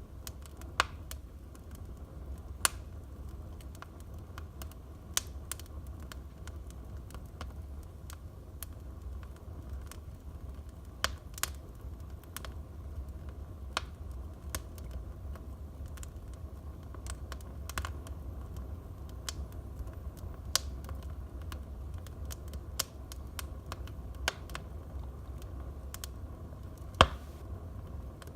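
Wood fire burning in a fireplace: irregular sharp crackles and pops over a low steady rumble, with one louder pop near the end.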